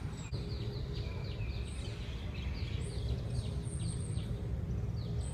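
Small birds chirping, a quick run of short falling chirps with a few higher calls, over a steady low rumble of outdoor background noise.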